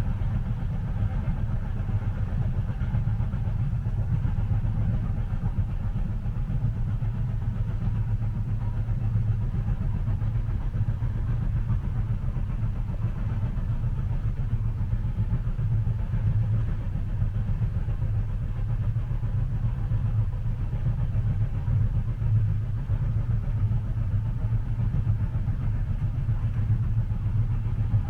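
Steady low rumble of a train running, heard from inside the passenger cabin, even throughout with no distinct rail-joint clicks.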